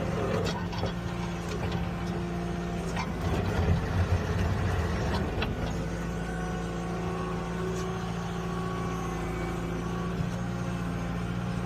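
Skid steer engine running at a steady pitch, with a few sharp clanks and a louder, rougher stretch about three to five seconds in.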